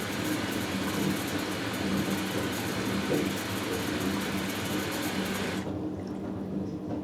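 Hoover Dynamic Next washing machine taking in water: a steady rush of water through the inlet valve into the drum, cutting off suddenly about five and a half seconds in, over a low hum that carries on.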